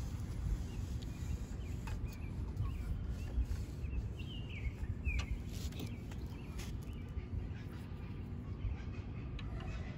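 Outdoor background with a steady low rumble and a few light clicks from a tape measure and board being handled, while a bird gives a few short chirps about four to five seconds in.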